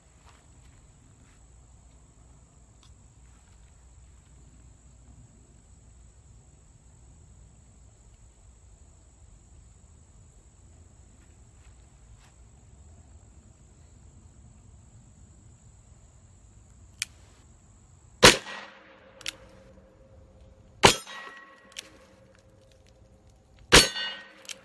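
Quiet outdoor ambience with a faint steady high whine, then three shots from an Uberti Lightning .38 Special revolver (a clone of the Colt 1877 double action), about two and a half to three seconds apart. Each shot is followed by the ringing clang of a steel target plate being hit.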